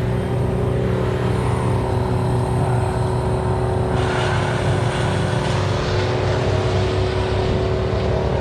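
A large engine running steadily at constant speed, a continuous droning hum, with a louder rushing hiss joining in from about four seconds in for a second or so.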